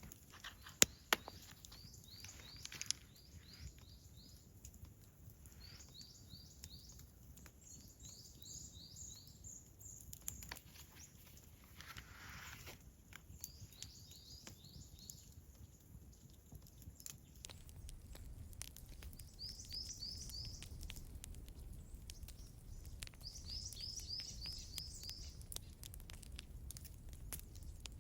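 A small songbird singing short phrases of quick, high repeated notes every few seconds, over a low steady background rumble. A few sharp clicks come about a second in.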